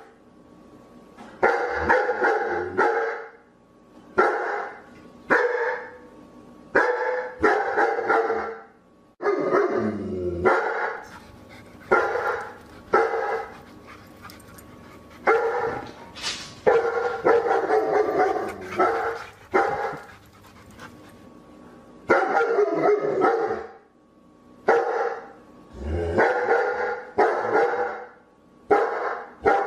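A dog barking over and over, in quick bouts of a few barks with short pauses between them.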